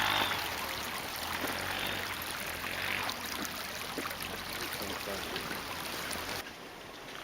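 Steady rush of running water with small splashes, dropping abruptly quieter near the end.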